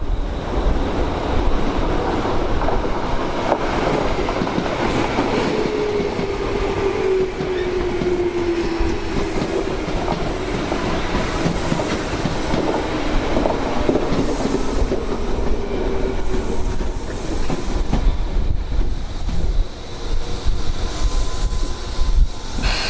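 Tobu Tojo Line electric commuter train running through the station, its wheels clattering over the rails, with a motor whine gliding slowly down in pitch. Strong wind buffets the microphone.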